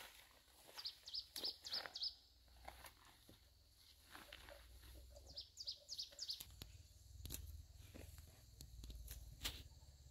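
Small bird chirping in two runs of quick high notes, about a second in and again around the middle, over scattered snaps and rustles of branches and plants being handled. A low rumble comes in during the second half.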